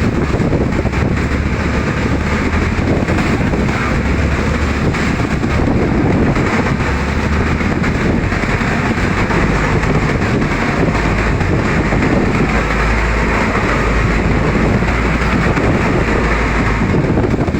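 Strong wind buffeting the microphone over the steady drone of a banka outrigger boat's engine under way.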